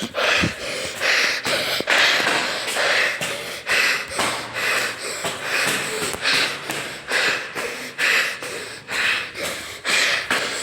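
A person breathing hard and fast close to the microphone, a loud breath about once a second, winded from climbing many flights of stairs. Faint footfalls on the steps come between the breaths.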